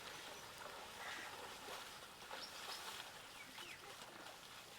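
Faint, scattered bird chirps over an even hiss of outdoor background noise.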